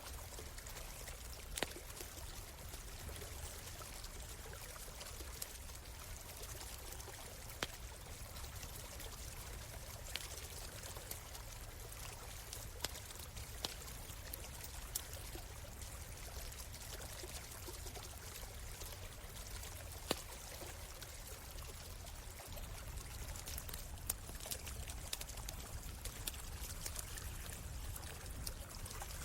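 A stream runs steadily, and a campfire's wood crackles and pops now and then over it. The water grows a little louder near the end.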